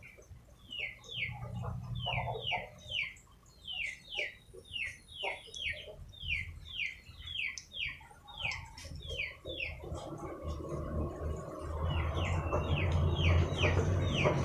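A bird chirping over and over in short falling chirps, about two or three a second, with a brief pause about two-thirds of the way in. From that point a low, rough noise rises underneath and becomes the loudest sound.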